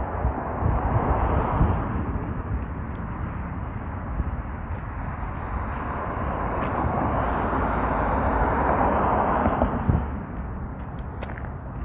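Road traffic on freeway ramps: a steady hiss of vehicles passing, one swelling over several seconds and dropping away about ten seconds in.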